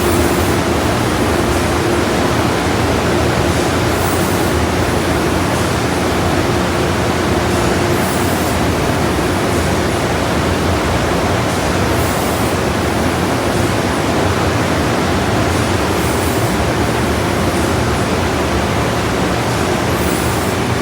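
Ryko SoftGloss XS 2 automatic car wash running over a car: a steady rush of water spray and machinery, with a hiss that swells about every four seconds and a steady hum that comes and goes.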